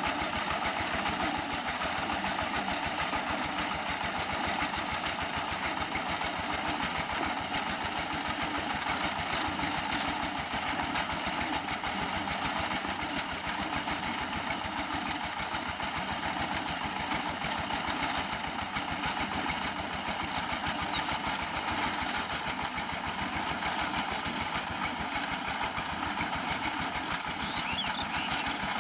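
Diesel power tiller's single-cylinder engine running steadily with a fast, even chugging.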